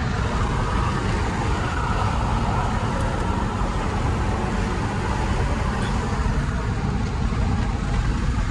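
A moving vehicle's road and wind noise: a steady low rumble under a loud, even hiss that comes in suddenly at the start.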